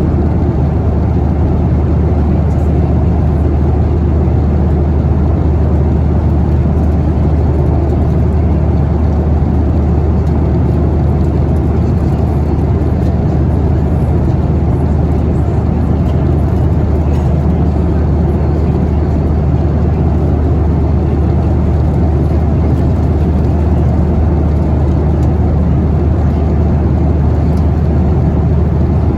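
Steady cabin noise inside a Boeing 737-900ER: a constant deep rumble of its CFM56-7B engines and airflow, with no change in pitch or level.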